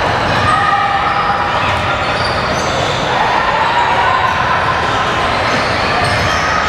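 Basketball game in a gym: a ball bouncing on the court amid echoing shouts from players and spectators, at a steady, loud level.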